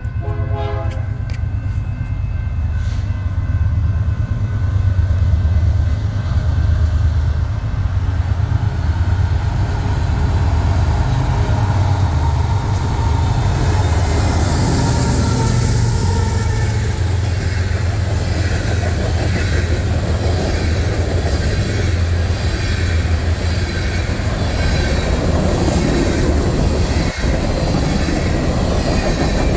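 A train passing close by: a steady low rumble, with the clatter of wheels over rail joints growing louder from about halfway through.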